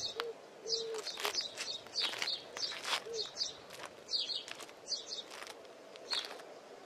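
Small birds chirping in short, high calls, a few a second, with a few brief lower notes in the first seconds.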